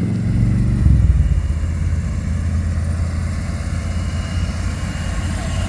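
A car engine running steadily with a low note, a little louder about a second in.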